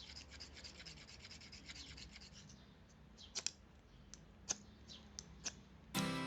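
Fine, dense scratching for about two and a half seconds, then several scattered sharp clicks.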